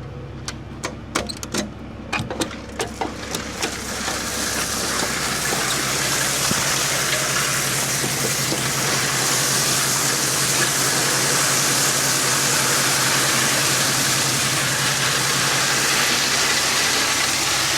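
Dump truck engine running steadily under a loud rushing, pouring noise that swells in about three seconds in and then holds steady, as of the tipped load sliding out of the body. A scatter of sharp clicks and ticks comes before it.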